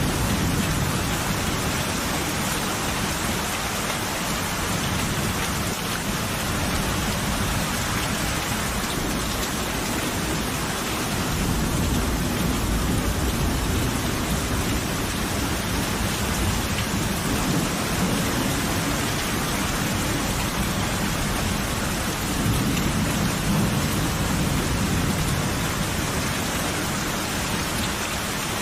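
Steady heavy rain falling, with low rolling thunder rumbling underneath that swells and fades a few times.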